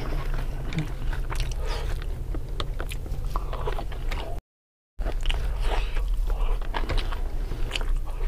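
Close-miked eating sounds: wet chewing and mouth smacks with many small clicks, and fingers scraping rice off a banana leaf, over a steady low hum. The sound cuts out completely for about half a second near the middle.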